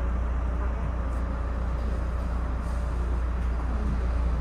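Steady low rumble and running noise inside a Bombardier Comet IIM commuter rail coach moving along the track.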